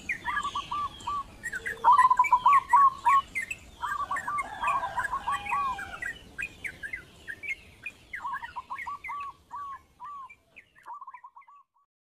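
Several birds chirping and singing in quick, repeated, hooked notes, overlapping at first, then thinning out and fading away near the end.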